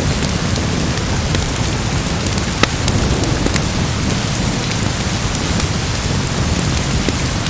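Steady heavy rain with a deep rumble underneath, and a few sharp crackles scattered through it.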